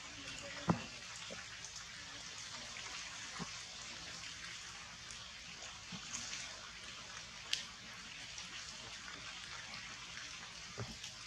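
Steady rain falling on forest leaves, a continuous hiss broken by a few sharper taps and drips, the strongest about a second in and others near the middle and end.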